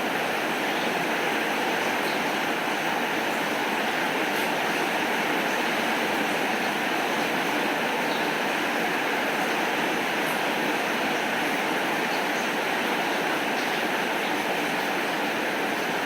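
Steady heavy rain: an even, unbroken hiss with faint scattered ticks of drops.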